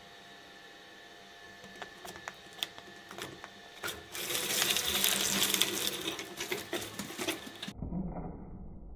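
Shredder running, with scattered sharp cracks that build into a loud, dense crunching as material is fed through the blades. It cuts off abruptly near the end into a duller, muffled sound.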